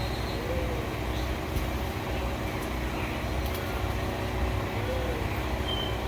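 Steady low rumble with a hum, with two faint short arched notes, one near the start and one near the end.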